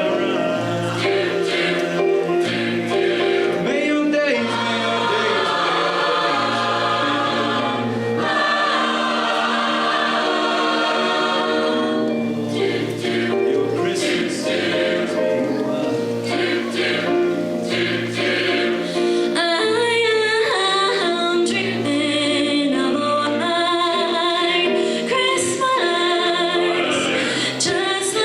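A high school choir singing a Christmas song with instrumental accompaniment, over a bass line that repeats every couple of seconds.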